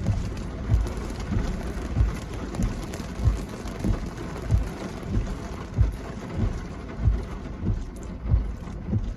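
Steady hiss of rain, with low thumps at walking pace, about three every two seconds, from the steps of someone walking with a handheld microphone.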